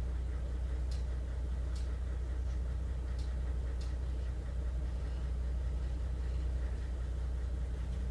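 Oigawa Railway Ikawa Line train heard from inside the coach: a steady low rumble and hum from the running train, with a few faint ticks.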